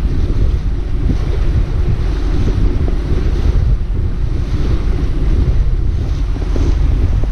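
Wind buffeting the microphone on a moving motorboat, a steady low rumble with water rushing past the hull and the boat's motor running underneath.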